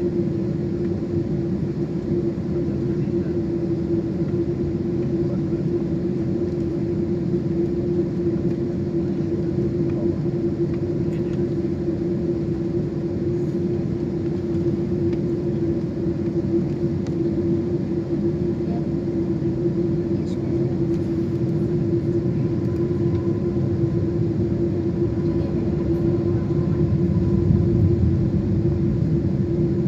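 Steady rumble of a Boeing 747's four jet engines, with a constant hum running through it. It swells slightly near the end.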